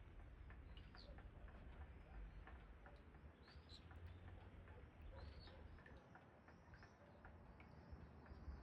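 Faint rain pattering with a low wind rumble, with short high bird chirps several times: about a second in, and again in the middle.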